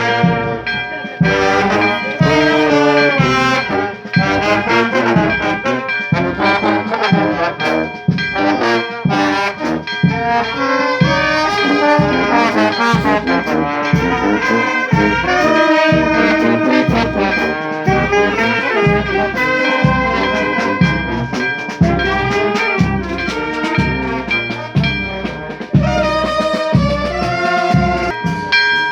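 Brass band playing a tune with trombones and trumpets over a regular drum beat about twice a second.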